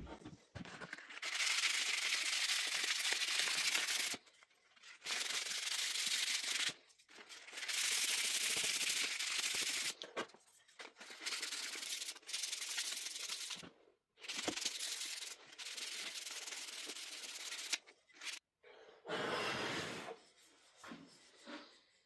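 Sandpaper rubbing over pallet-wood coasters to sand them smooth, in stretches of one to three seconds with short pauses between.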